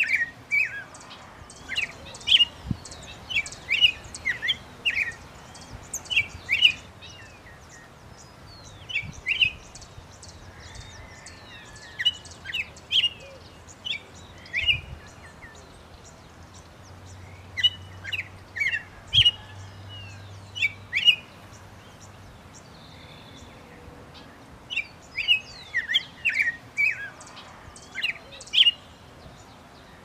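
Birds chirping in bouts of quick, short, high chirps lasting a few seconds each, with pauses of a few seconds between bouts.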